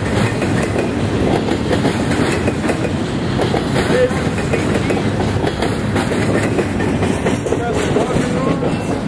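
Intermodal freight train's container well cars rolling past, a steady, continuous noise of steel wheels running on the rails.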